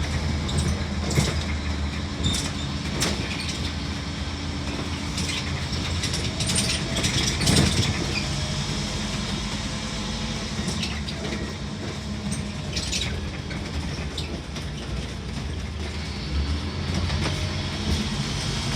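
Scania N230UD Omnicity double-decker bus heard from the upper deck while moving: its five-cylinder diesel engine drones steadily under frequent rattles and clicks from the bodywork and fittings, with a heavier knock about seven seconds in.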